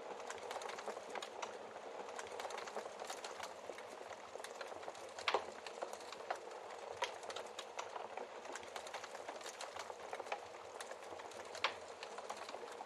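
Wood fire burning in a fireplace hearth: a steady crackle of many small clicks, with two louder pops of the logs about five and twelve seconds in.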